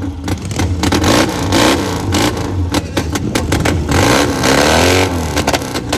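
Rickman motorcycle engine running and being revved, with a rev that rises and falls about four to five seconds in.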